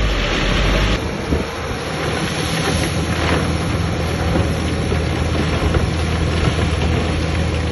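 Heavy diesel earthmoving machinery running steadily, a low engine drone under a rough noisy rush. The rush is stronger for the first second or so.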